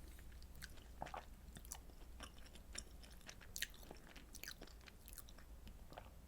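Close-miked chewing: quiet, wet mouth clicks and smacks of someone eating, in many short irregular ticks.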